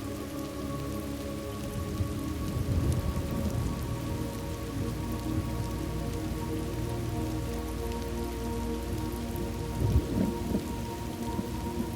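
Thunderstorm ambience: steady rain, with low rolls of thunder swelling about three seconds in and again near the end.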